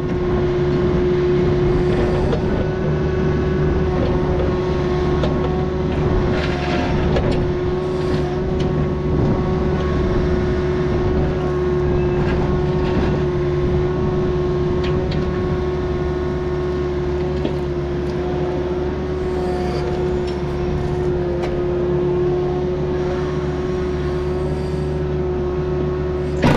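Diesel engine of a Takeuchi earthmoving machine running steadily at working revs during grading, with a constant whine over the engine note. A few sharp knocks and clanks are heard, about six and eight seconds in and again near the end.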